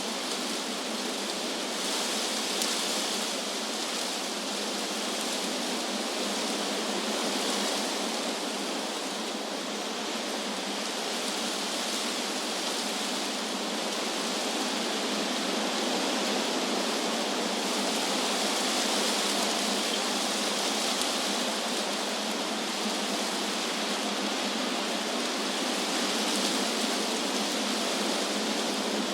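Wind blowing through trees: a steady hiss of stirring leaves that swells and eases gently every few seconds.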